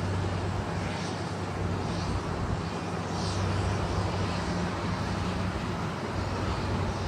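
Steady low engine hum over a background of outdoor noise, with faint high chirps about once a second.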